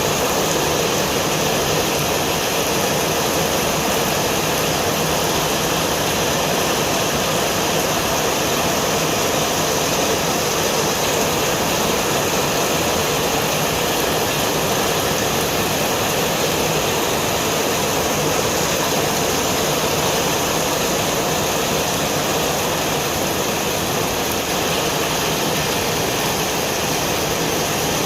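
Steady rushing noise of riding a motorcycle through heavy rain: wind buffeting the microphone, mixed with rain and the bike's running.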